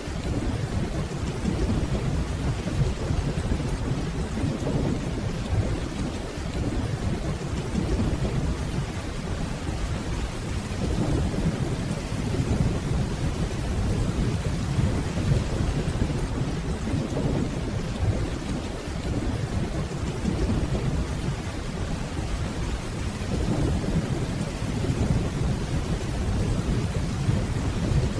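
Steady rainfall under a continuous low, deep rumble of distant rolling thunder.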